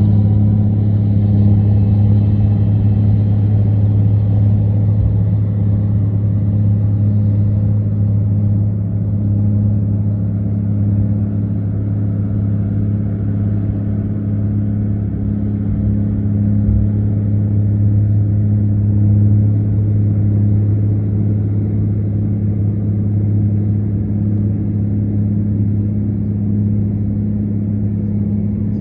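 John Deere 9400 four-wheel-drive tractor's six-cylinder Cummins diesel running steadily, a deep hum that holds one pitch throughout.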